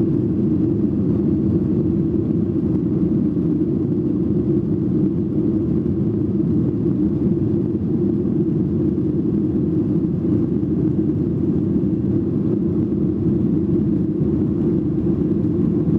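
Steady cabin rumble inside a Boeing 737 in flight: engine and airflow noise running evenly, low and unchanging.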